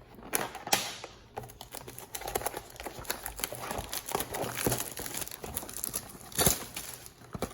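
Crinkling and tearing of trading-card box packaging as it is ripped open by hand, an irregular crackle with a few sharper snaps.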